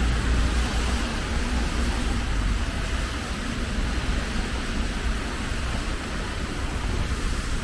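Steady hiss of rain with a continuous low rumble underneath.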